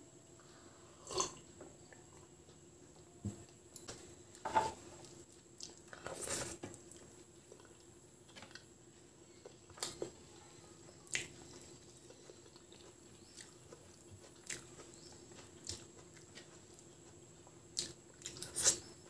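Close-up eating sounds of rice mixed with dal and egg omelette eaten by hand: irregular wet lip smacks, mouth clicks and chewing, with a cluster of smacks near the end.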